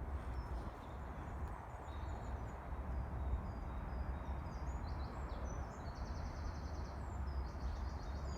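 Small wild birds chirping and whistling in woodland, with two rapid trills in the second half, over a steady low rumble.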